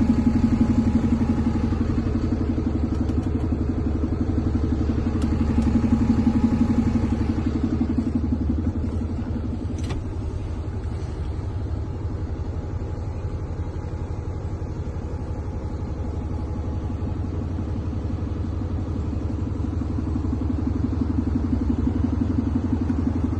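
DAF CF 290 truck's six-cylinder diesel engine running steadily, swelling slightly in level around six seconds in.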